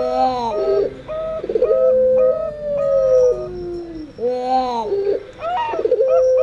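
Puter pelung and perkutut (zebra dove) cooing together. A long drawn coo falls in two steps, overlapped by short coo notes repeating about four times a second, with clusters of bent coo notes about a second in and again around four seconds.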